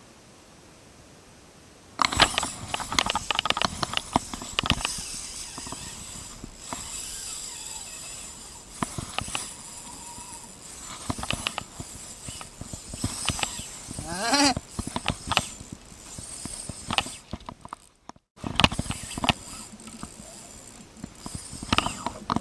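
Fishing reel clicking and rattling, with handling knocks, starting abruptly about two seconds in while a hooked barramundi is being played.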